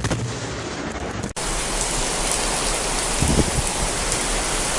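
Heavy rain pouring steadily, a dense even hiss that starts abruptly, with a short low rumble about three seconds in.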